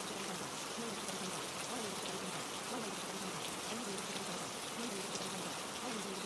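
Steady rain, an even hiss with no let-up.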